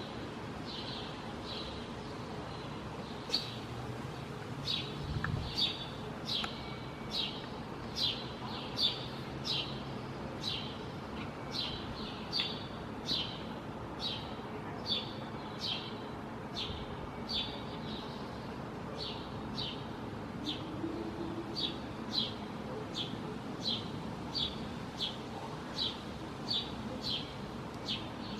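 A songbird repeating a short, high chirp, about one to two a second, over a steady background hiss.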